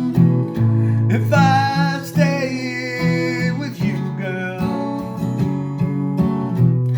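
Guitar music: an acoustic guitar strumming held chords under a lead line of notes that bend and glide, about a second in.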